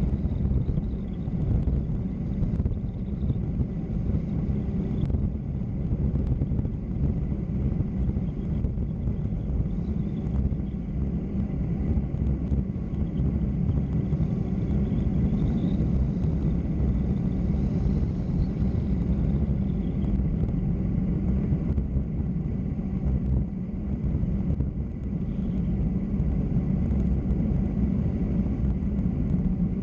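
Steady low rumble of wind and tyre noise from travelling fast downhill on a mountain road, with no pauses or separate events.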